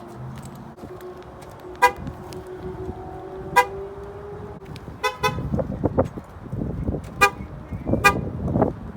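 Several short horn chirps from a 2015 Ford Escape, one including a quick double, while the engine starts about five seconds in and runs with an uneven low rumble.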